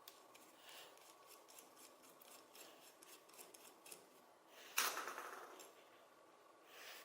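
Faint clicks and scratchy strokes of hand work on small parts, followed about five seconds in by one louder rasping scrape that fades over about a second.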